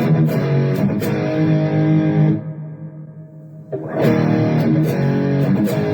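Electric guitar played through a Donner Arena2000 multi-effects pedal with its lead boost engaged, giving a slightly overdriven tone. A chord is held and choked off about two seconds in, then a second chord comes in near four seconds and rings on.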